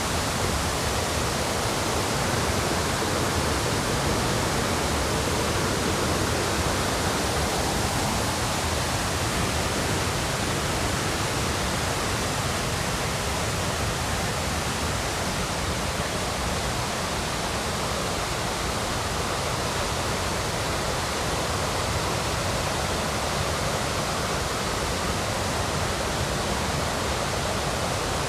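Steady rush of river rapids, an even wall of water noise that does not change.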